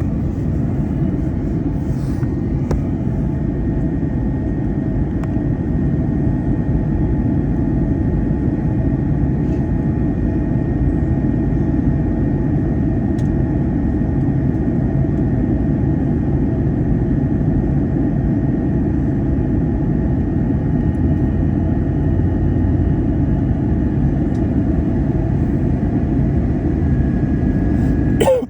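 Steady rumble of engine and airflow noise inside an Airbus A321 cabin in flight, with a faint steady whine above it.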